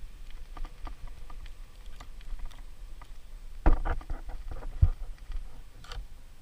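Handling noise from a camera being set up: scattered small clicks and taps, with two louder knocks about a second apart in the middle, over a steady low rumble.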